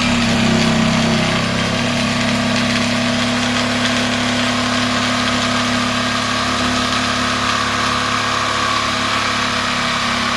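Electric power tool motor running steadily at one constant speed while trimming a wooden skirt board, with a thin high whine over it.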